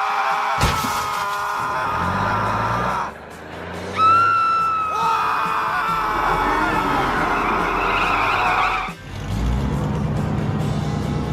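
Cartoon soundtrack: background music mixed with car engine and tyre-skid sound effects, dropping away briefly about three seconds in and again near nine seconds.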